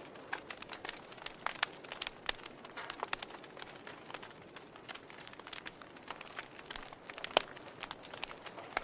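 Wood fire crackling in a fireplace: irregular sharp pops and snaps over a soft hiss, with one louder pop about seven seconds in.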